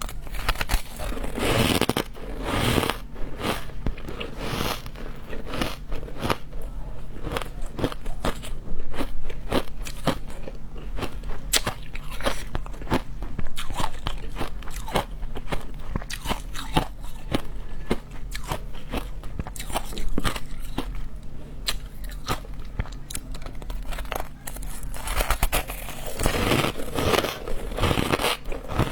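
Close-up biting and chewing of frozen matcha ice: a dense run of sharp cracks and crunches, heavier about a second or two in and again near the end.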